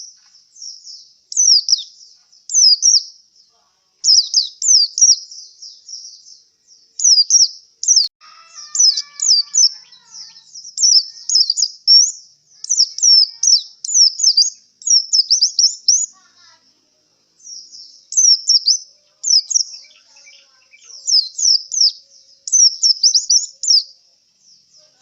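Male pleci (white-eye) singing in quick runs of high, sweeping chirps, with short pauses between phrases. The owner takes the song for that of a bird tired after a singing contest.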